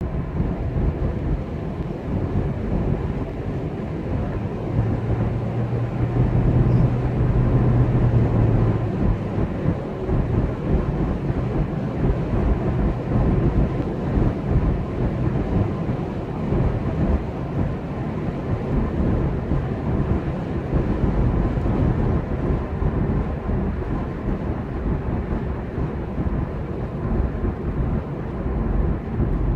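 Steady low rumble of a running vehicle and its road noise, with a low hum rising out of it about five seconds in for a few seconds, where it is loudest.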